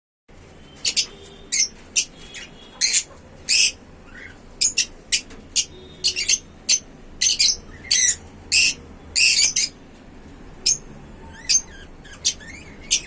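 African lovebirds squawking: short, harsh, high-pitched calls repeated irregularly about twice a second. They give way to a few thinner chirps near the end.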